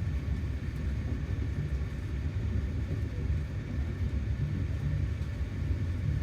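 Passenger train running, heard inside the carriage as a steady low rumble.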